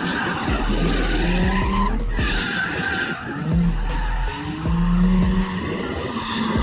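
Car drifting with its tires squealing and the engine running, over background music with a steady beat.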